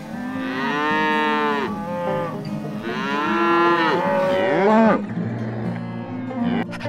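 A cow mooing twice: two long calls about a second apart, the second one longer.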